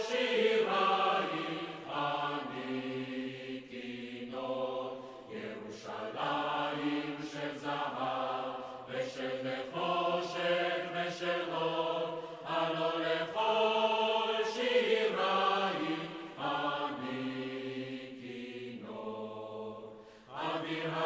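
A choir singing a slow chant, with long held notes in phrases a few seconds long and short breaks between them.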